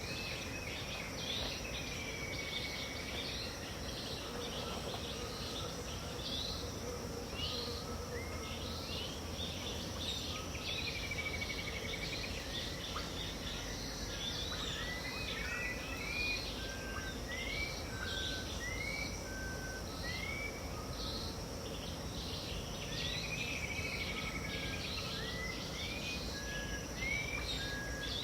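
Dawn chorus of many birds in a tropical wetland, calling over a steady high insect drone. Short rising whistled notes repeat in a quick series from about halfway on, among longer arched calls.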